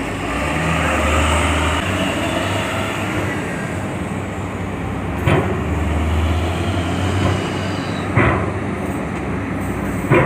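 Vehicle engines running with a steady low rumble as vehicles drive off a ferry during unloading. There are three sharp clanks, about five, eight and ten seconds in.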